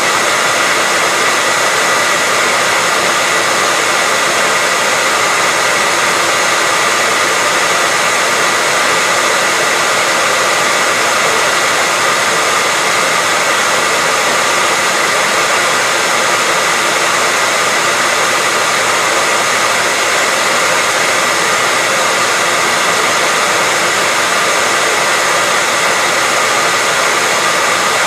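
Hair dryer running steadily on one setting: an even rushing of air with a faint whine from its motor, unchanging throughout.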